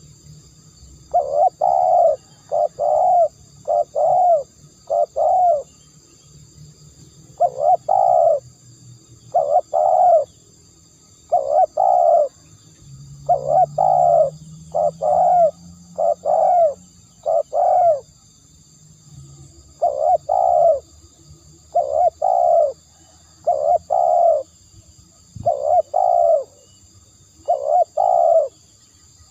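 Spotted dove cooing: phrases of several short, low coo notes repeated over and over with brief pauses between them, as in a decoy call used to lure doves.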